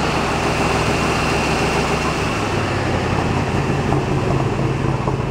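1960 Corvette's 350 small-block Chevrolet V8 running on its first start in over 40 years, fed only by gas poured into the carburettor float bowls. The engine speed picks up about two seconds in.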